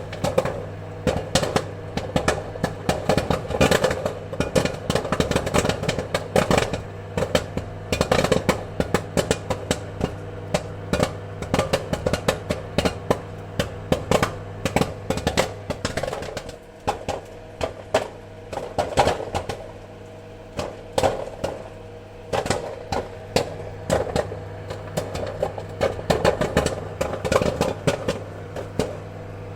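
Popcorn kernels popping, many irregular sharp pops a second, thinning out for a few seconds midway before picking up again. A steady low hum runs underneath.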